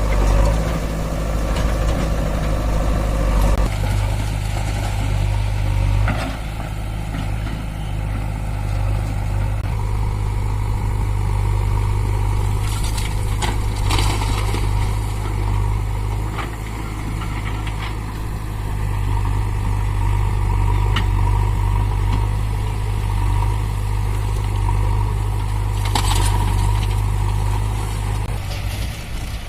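Heavy diesel engine running steadily, a low even hum, with a few short knocks about halfway through and again near the end.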